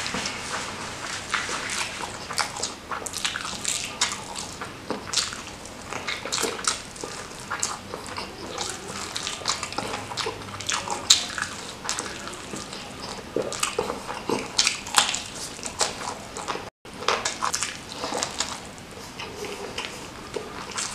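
Close-miked mukbang eating: wet chewing and lip-smacking of spicy smashed fried chicken and rice eaten by hand, with a steady run of irregular short clicks and crackles. The sound cuts out for a moment about three-quarters of the way through.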